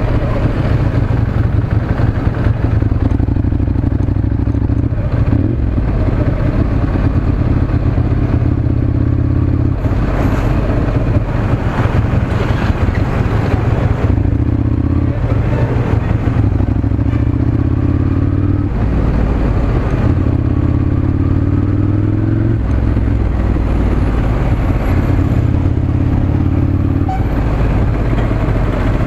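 Ducati Monster 796's air-cooled L-twin on its stock exhaust, running through traffic at moderate speed. The engine note holds steady for a few seconds at a time, then steps to a new pitch as the rider shifts or eases off. It rises in one pull about twenty seconds in.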